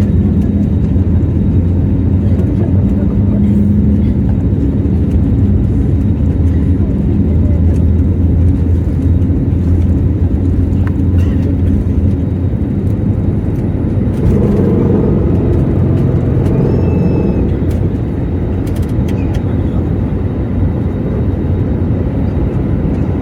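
Jet airliner cabin during the takeoff run: a loud, steady rumble of the engines and runway heard from inside the cabin.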